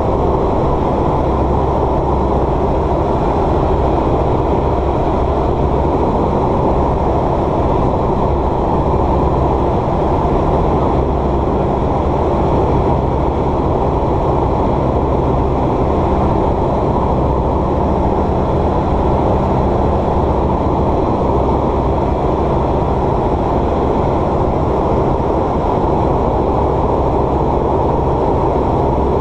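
Light aircraft's engine and propeller running steadily, heard from inside the cabin as a constant loud drone.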